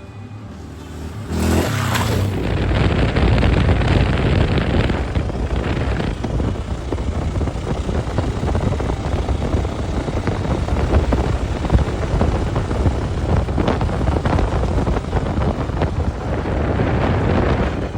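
Husqvarna dirt bike under way on a trail, its engine running with wind rushing over the microphone. The sound jumps up loud about a second in and then holds steady.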